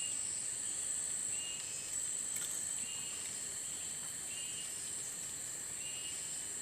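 Steady high-pitched insect drone, with a short high chirp repeating about every one and a half seconds.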